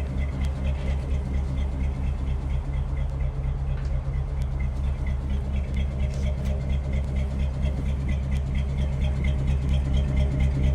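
Ford 8BA flathead V8 idling steadily through a dual exhaust, with a light, regular ticking above the low hum.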